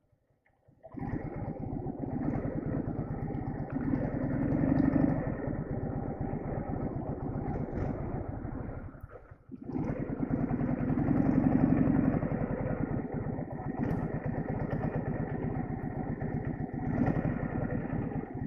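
Soviet flat-twin motorcycle engine running, swelling louder in a rev about four seconds in, dropping away briefly around nine seconds, then running again with another louder swell before cutting off abruptly at the end.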